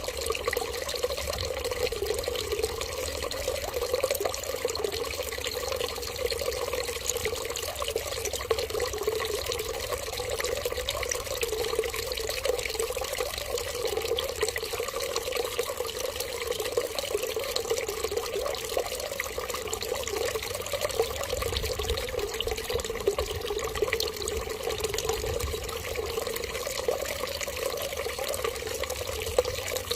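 Running water in a steady, continuous stream, trickling and splashing evenly throughout.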